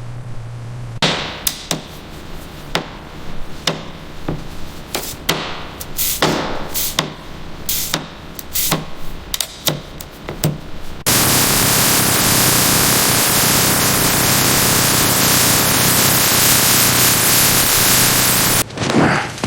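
Tool strikes at an irregular pace for about ten seconds, typical of hammering in car body repair. Then a loud, steady hiss starts abruptly and cuts off suddenly near the end.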